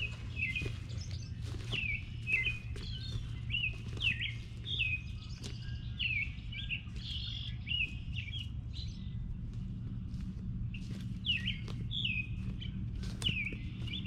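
Birds chirping: many short notes, each falling quickly in pitch, coming in clusters throughout. Beneath them runs a low steady rumble, with scattered light clicks.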